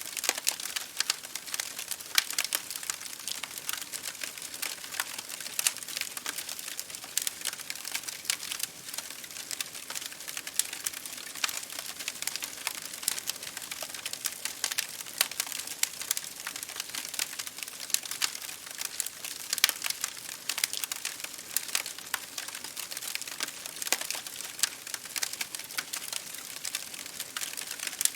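Campfire crackling, with many irregular sharp pops and snaps over a steady hiss.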